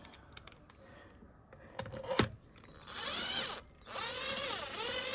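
A ratchet spanner at work: one sharp click about two seconds in, then two quick runs of ratcheting, the second longer.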